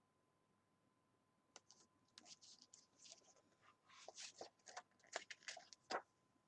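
Near silence, with a scatter of faint small clicks and rustles, such as handling noise, from about a second and a half in until about six seconds.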